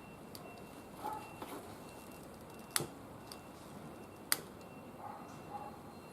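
Firewood burning with a quiet crackle and two sharp pops, the first about three seconds in and the second a second and a half later.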